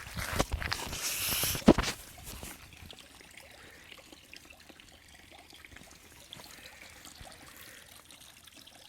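Splashing, trickling water for the first two seconds or so, with a sharp knock near the end of it, then only a faint steady background.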